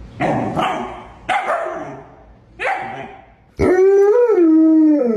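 A dog barks three times, then lets out one long, loud howl that wavers in pitch.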